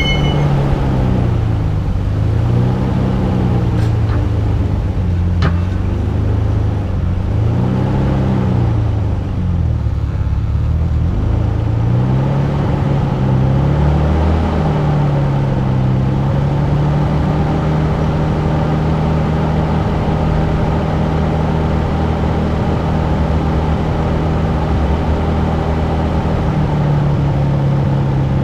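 1991 Nissan Skyline R32 GT-R's twin-turbo RB26DETT straight-six under way. The revs rise and fall over and over for roughly the first half, then hold steady.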